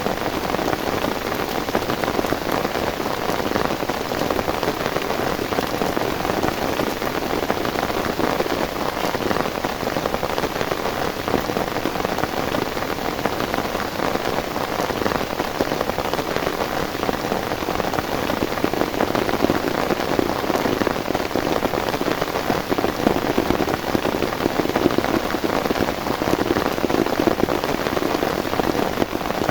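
Heavy rain falling steadily, a dense, even patter of countless drops striking a surface.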